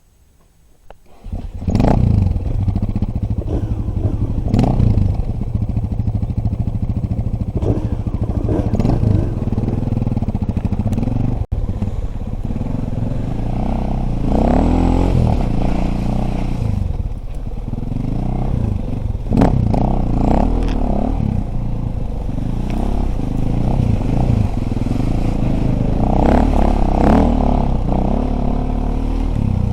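Dirt bike engine running loudly while riding, rising and falling in pitch as the throttle opens and closes, with rattling over the ground. The engine noise comes in suddenly about a second and a half in.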